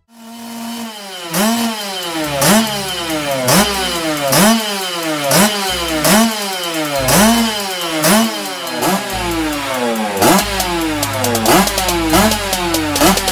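Kawasaki KMX 125's single-cylinder two-stroke engine, the bike up on a stand, revved over and over at about one blip a second. Each rev climbs quickly in pitch and then falls back more slowly toward idle.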